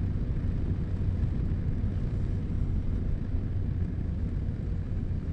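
Yamaha Ténéré 700's 689 cc parallel-twin running at a steady cruise, a constant low drone with wind and road rush over it.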